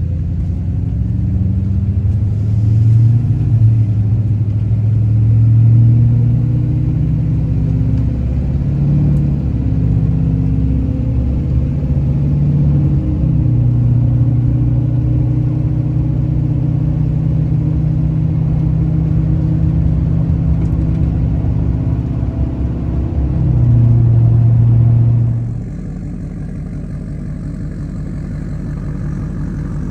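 Straight-piped LBZ Duramax 6.6-litre V8 turbo diesel idling after a cold start well below freezing, its note shifting slightly as it runs. About 25 seconds in, the sound swells briefly, then drops suddenly to a lower, choppier idle.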